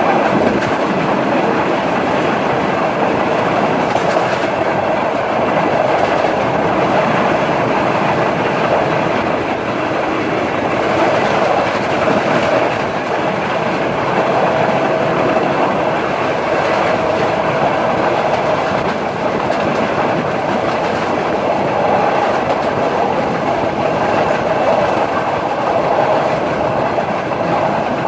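Udaya Devi express train running along the line: the steady rumble of the moving carriage, with the wheels now and then clicking over rail joints.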